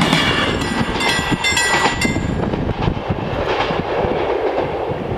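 An X12 electric multiple unit passes over a level crossing with its wheels clicking on the rails, while the crossing bells ring. The bells stop about two seconds in, and the train's rumble fades as it moves away.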